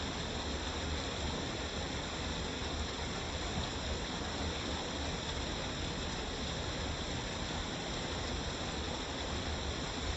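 Waterfall rushing: a steady, unbroken roar of falling water with no changes.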